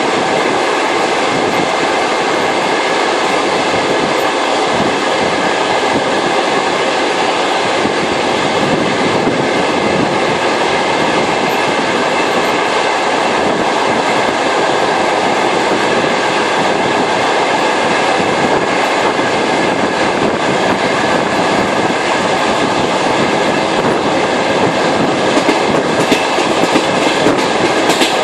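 Trans-Siberian passenger train running along the track: a steady rumble and hiss of wheels on rails, with a few louder knocks near the end.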